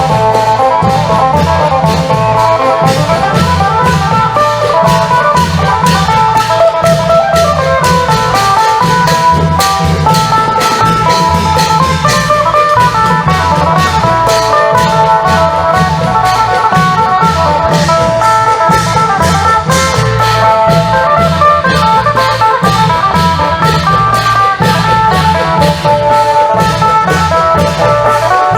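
Isan klong yao long-drum band with a phin (Isan lute) playing a quick plucked melody over a steady drum rhythm and rapid, even cymbal strokes.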